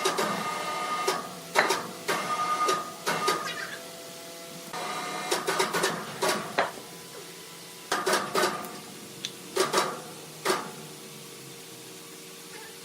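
Sawmill machinery running with a steady whine, under repeated bursts of sharp knocks and clattering. The knocking stops about two-thirds of the way through, leaving only the steady machine whine.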